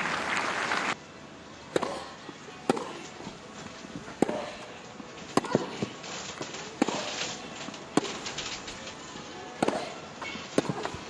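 A tennis rally: racquets striking the ball back and forth, a sharp crack roughly every second, with the ball's bounces between. A short burst of noise fills the first second.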